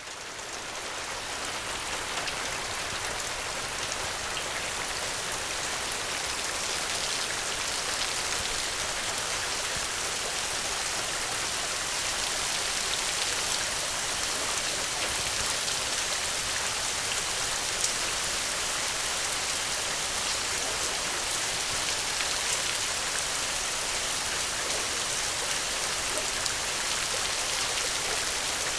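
Steady rain falling, an even hiss of many drops with fine scattered patters, fading in over the first second or two and then holding steady.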